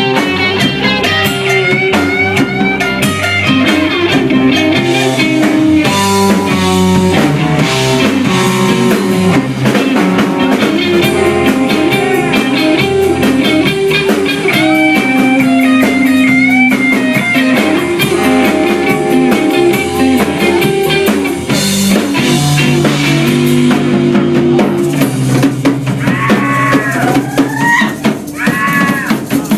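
A live rock band playing instrumental music: electric guitar lines over bass and a drum kit, with sliding, swooping notes near the end.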